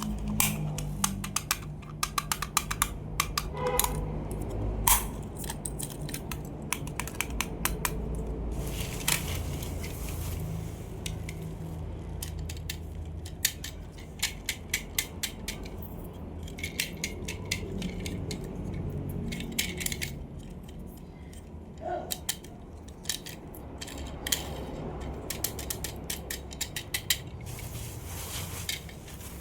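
Toy cars handled by hand: many sharp clicks and taps of small hard toys, some in quick runs and some single, over a low hum.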